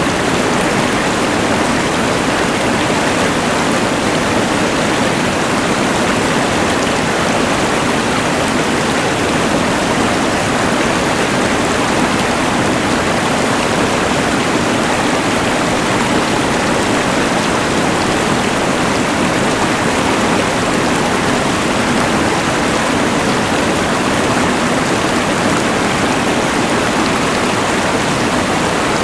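Steady, unbroken rush of a mountain river blended with the even hiss of a LectroFan white noise machine.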